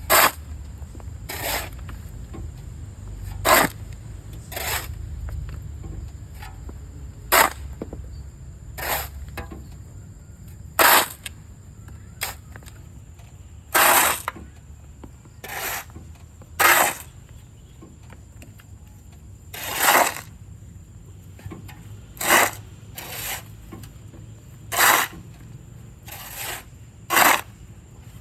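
Shovel scraping into wet sand, about sixteen short strokes spaced irregularly a second or two apart.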